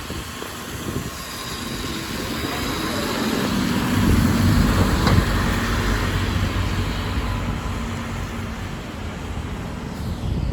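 City bus driving past, its engine sound swelling to a peak about four seconds in and then fading away.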